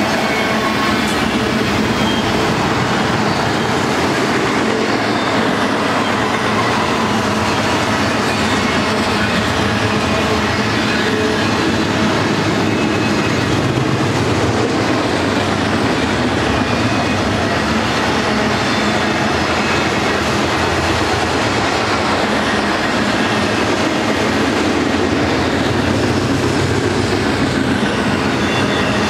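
Intermodal freight cars loaded with truck trailers and containers rolling past: a steady, loud rumble and rattle of steel wheels on the rails.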